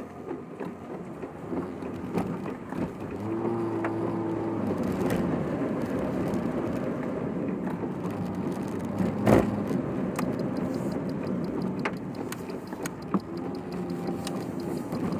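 Car cabin noise while driving: a steady engine and road rumble, sped up to double speed, with a few faint clicks and one sharp knock about nine seconds in.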